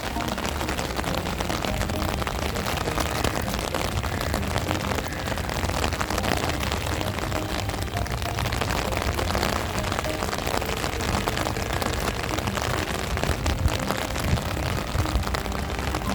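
Heavy rain falling, a dense steady patter of drops, with strong wind rumbling across the microphone.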